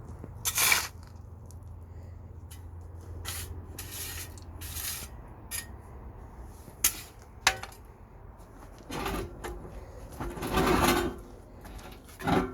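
Irregular knocks and clatters of hands-on building work, a dozen or so sharp hits and short scraping rattles, the longest about ten seconds in. A low steady hum runs underneath and fades out about five seconds in.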